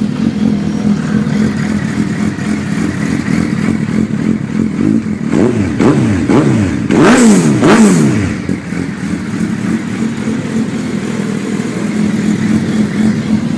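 2008 Suzuki Hayabusa's inline-four with an Akrapovic full exhaust system idling, then blipped about five times in quick succession about halfway through, the last two revs the highest and loudest, before settling back to a steady idle.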